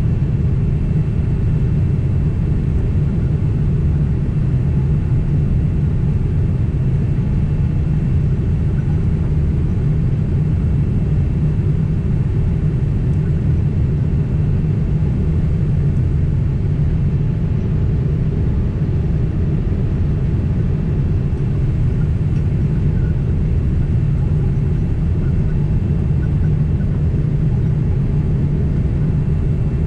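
Steady cabin noise of a Boeing 767 airliner in flight: a deep, even rumble of engines and airflow, with a faint steady high tone above it.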